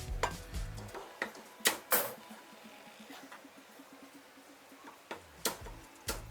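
Background music with a low, stepping bass line, cut by about six sharp knocks of a cleaver chopping crispy roast pork on a chopping block, the loudest pair about two seconds in.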